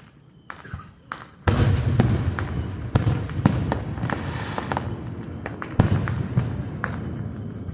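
Aerial fireworks bursting. A loud boom comes about a second and a half in, followed by crackling and several sharp pops, and another boom comes about two-thirds of the way through before it all fades off.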